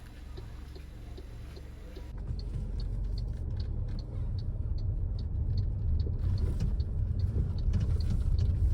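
Car driving, a low rumble of engine and tyres that grows louder about two seconds in and keeps building. A faint, rapid, regular ticking runs through it.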